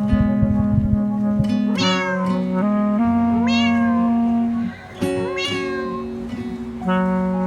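A cat meowing three times, each meow rising and then falling in pitch, over background music with long held notes.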